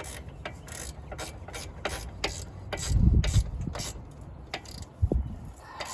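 Hand socket ratchet clicking in uneven strokes as a wheel hub assembly's mounting bolt is run in, with a couple of dull knocks along the way.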